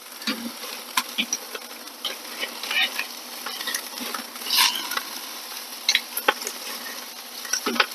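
Bone-in, skin-on chicken thighs sizzling as they sear over the fire on a kettle grill, with a steady hiss and scattered sharp crackles and pops as the fat renders and the skin chars.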